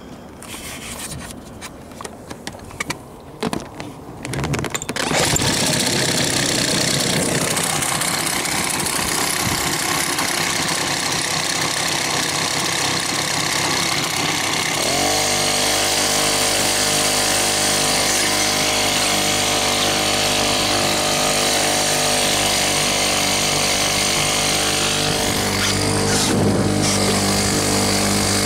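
Small 2.6 hp lawnmower-engine outboard motor starting and running. A few knocks in the first seconds, then it runs loud and steady from about five seconds in; about halfway through, after a short rise, its note settles into an even, steady pitch.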